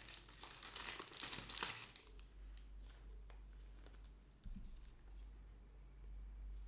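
Plastic packaging crinkling as trading cards are handled. It is busiest in the first two seconds, then thins to a few faint ticks.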